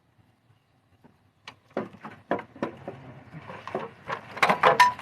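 An irregular run of sharp knocks and metallic clunks, starting about a second and a half in and loudest near the end, as the cylinder head of a 2008 Dodge Avenger's engine is worked loose from the block.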